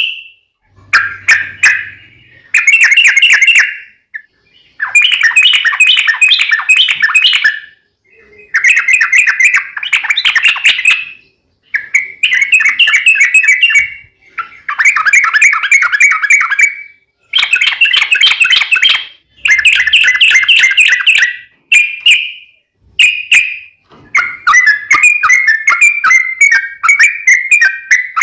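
Yellow-vented bulbul (trucukan) singing in loud, rapid bubbling phrases of about one to three seconds each, repeated with short pauses: the long rolling 'ropel' song.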